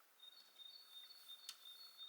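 Near silence with a faint, steady high-pitched tone, and one light click about halfway through.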